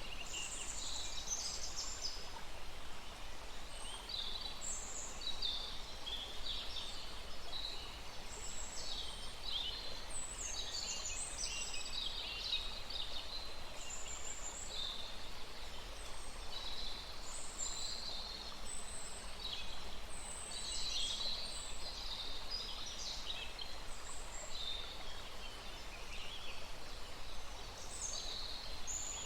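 Several birds chirping and trilling in quick, overlapping short phrases over a steady rush of flowing stream water.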